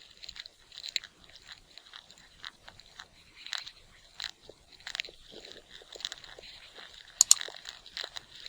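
An animal chewing food: irregular crisp crunching clicks, with one sharper, louder click about seven seconds in.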